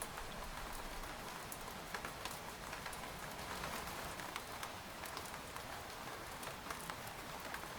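Steady rain falling on a tent, an even hiss with many separate drops ticking sharply on the fabric.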